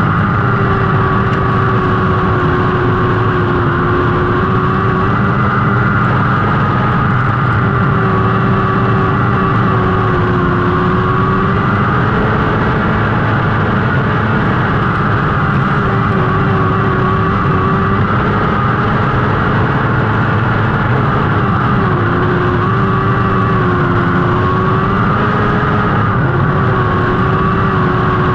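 Lightning sprint car engines racing: a loud, steady high-revving drone whose pitch dips and rises every few seconds as the cars go around the track.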